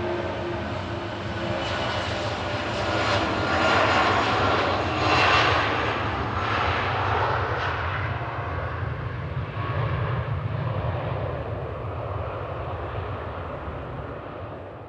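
Airliner passing close by: engine whine with steady tones, swelling to its loudest about four to five seconds in, then fading away slowly.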